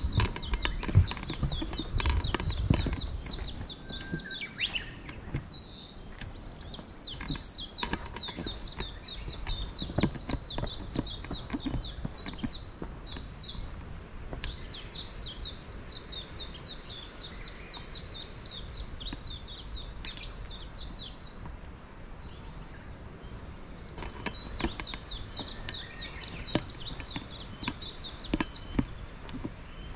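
A songbird singing long, rapid runs of high chirps, breaking off about two-thirds of the way through and starting again a couple of seconds later, over a low background rumble.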